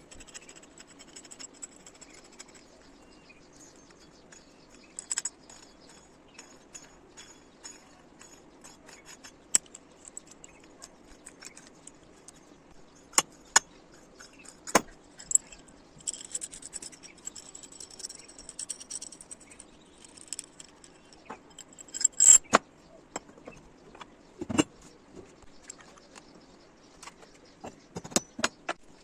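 Metal parts and hand tools being handled on a workbench: scattered metallic clinks and sharp knocks, a few seconds of scraping in the middle, and the loudest knock about two-thirds of the way in, over a faint low background hum.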